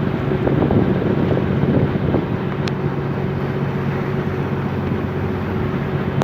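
Boat engine running steadily at an even pitch, with wind buffeting the microphone.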